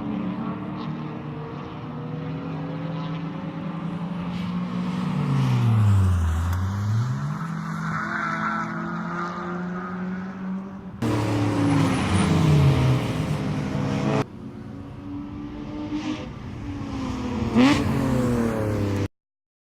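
BMW E30 race car's M52 straight-six engine running hard, its revs dropping steeply and climbing again, then rising and falling through further gear changes across several abruptly cut segments. The sound stops dead for a moment near the end.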